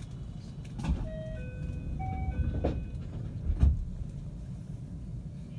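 A short electronic chime of four notes, stepping up and down in pitch, over the steady low rumble of a 521-series electric train running. Two loud low knocks come about a second in and again past the middle.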